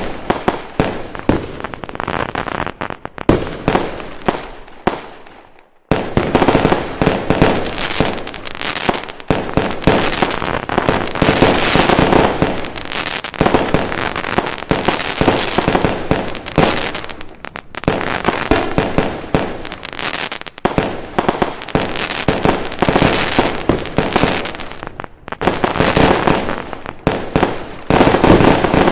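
Fireworks going off in rapid, overlapping volleys of bangs and crackling. They fade to a brief lull about six seconds in, then resume densely.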